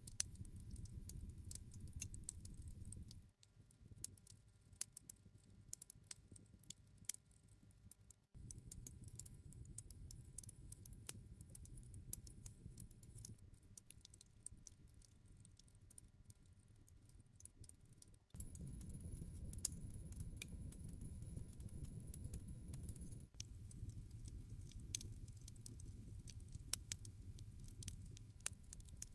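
Wood fire crackling: irregular sharp pops and snaps over a faint low rumble of burning. The rumble drops away and returns abruptly a few times.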